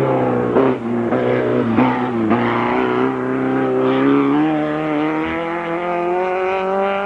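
Hill-climb race car engine under load: its pitch drops, with short breaks, over the first two seconds or so, then climbs slowly and steadily as the car accelerates up the course.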